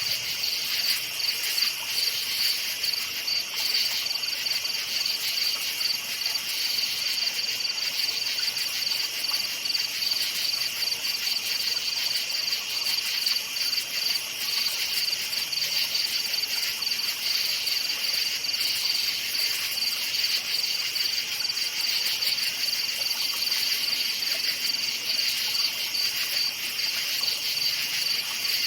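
Crickets chirping at night in a continuous, steady chorus, a high pulsing trill with no pauses.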